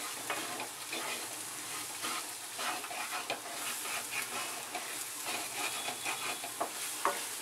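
Fresh black ghevda beans sizzling in a kadhai of hot oil and onion-tomato masala, with a spoon scraping and stirring them around the pan in irregular strokes.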